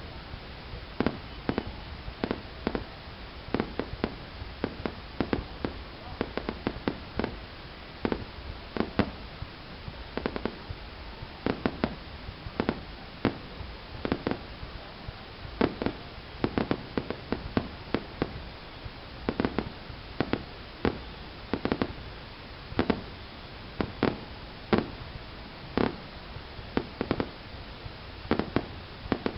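Fireworks going off in a long series of sharp bangs, roughly one or two a second, over a steady low rumble.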